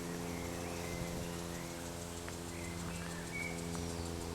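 A steady low hum, with a few faint bird chirps over it.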